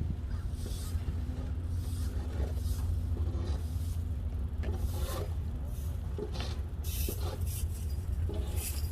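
Steady low rumble of wind and road noise on a moving bicycle's microphone, with short bursts of hiss.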